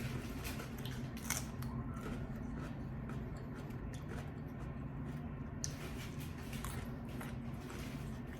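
Close-miked chewing of food, with irregular crisp clicks and mouth smacks over a steady low hum.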